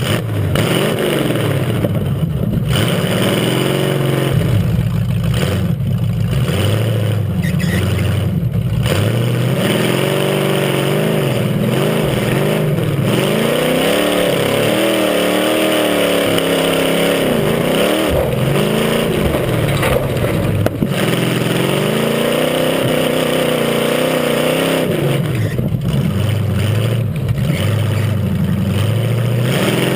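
Off-road racing tough truck's engine revving hard and easing off again and again, its pitch rising and falling every second or two as it drives the dirt track.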